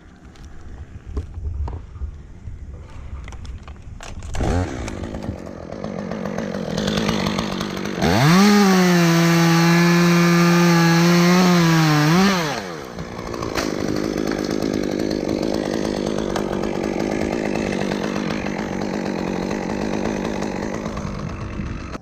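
Chainsaw revved briefly about four seconds in, then run at full throttle for about four seconds at a steady high pitch before dropping back. It keeps running at a lower, steady level until near the end.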